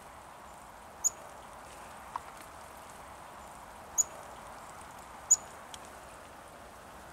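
A small songbird giving three short, sharp, high-pitched chip calls, each a second or more apart, over a faint steady hush.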